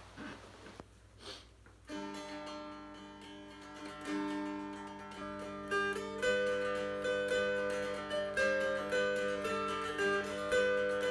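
Mountain dulcimer with a tulip poplar body and black walnut fingerboard being played. A strum about two seconds in sets the drone strings ringing steadily, and from about six seconds a plucked melody moves over the drones.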